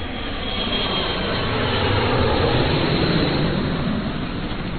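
Aircraft passing: a loud rushing engine noise that cuts in suddenly, swells to a peak midway, then begins to fade.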